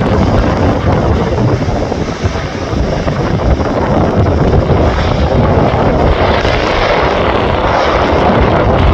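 Turboprop airliner's engines running during a windy landing, with heavy wind buffeting the microphone. A higher hiss grows louder about six seconds in.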